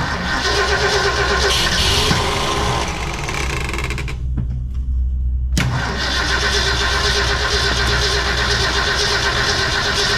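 1966 Ford F100's V8 engine starting and running steadily, a truck that had sat unused for years brought back to life. The higher part of the sound drops away briefly near the middle while the low engine rumble carries on.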